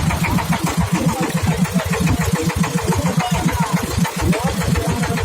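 Motorboat engine running with a fast, even chugging.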